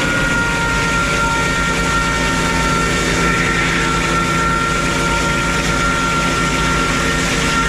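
Frick 01-C circular sawmill running steadily: a steady machine drone with a high, even whine.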